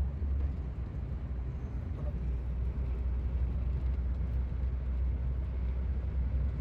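Steady low rumble of a vehicle interior, with an even noise haze over it.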